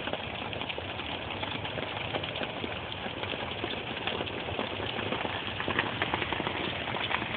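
Hail falling, a dense steady patter of many small ticks over a hiss.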